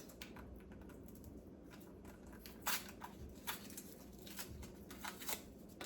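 Faint rustling and light clicks and taps of small items being handled, with a few sharper taps in the middle and near the end.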